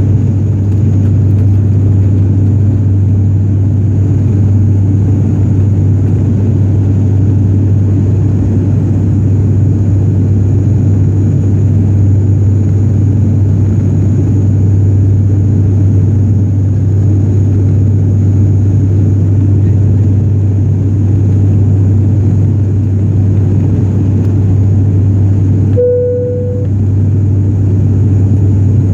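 Steady cabin drone of a turboprop airliner climbing out after takeoff, dominated by a strong, even low propeller hum. About three seconds before the end, a brief single chime-like tone sounds.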